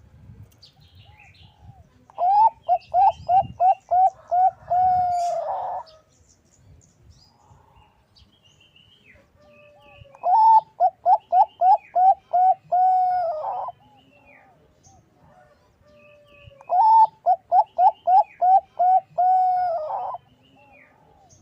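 Bangkok-strain zebra dove (perkutut) cooing: three song bouts, each a run of about seven quick, short rising notes ending in a longer held coo.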